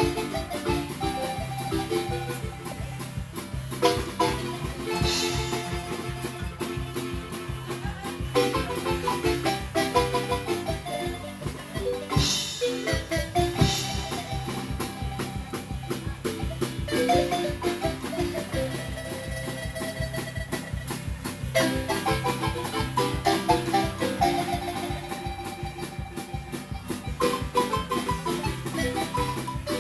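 Acoustic Chiapas-style marimba played by several players, a rhythmic dance tune with fast repeated mallet strokes over a steady bass line.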